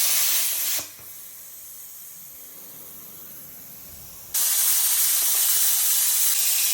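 Steady hiss of a plasma cutter, which stops abruptly under a second in and starts again just as suddenly about four seconds in.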